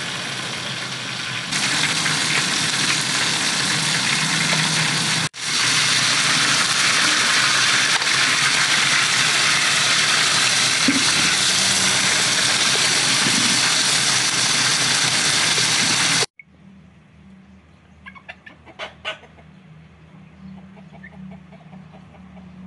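Burger patties sizzling loudly and steadily in oil on a large metal saj, the frying noise cutting off suddenly about 16 seconds in. After it, chickens cluck faintly, with a few sharp clicks.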